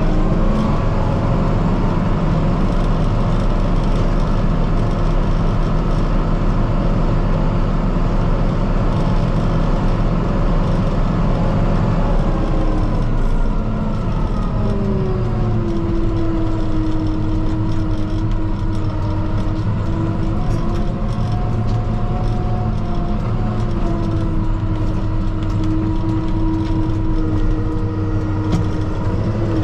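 Kubota M5-091 tractor's diesel engine running steadily, heard from inside the cab. About halfway through, the engine note drops and settles at a lower pitch.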